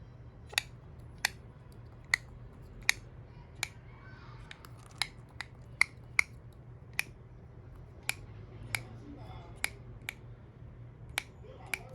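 Quaker parrot making a run of sharp clicks, roughly one or two a second at uneven spacing, with faint quiet mumbling in between.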